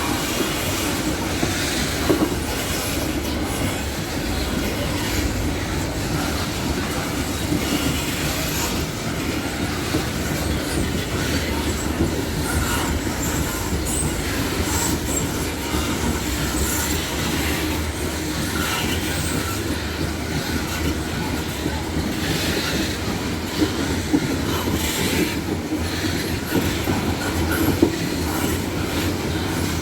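Loaded freight wagons rolling past steadily, with a continuous wheel-on-rail rumble, scattered brief high-pitched wheel squeals and a few sharp knocks.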